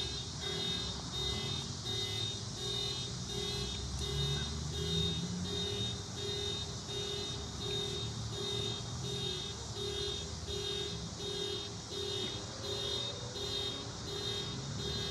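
An electronic alarm beeping steadily, about one and a half beeps a second, each beep a low tone with a shrill upper tone, over a low rumble.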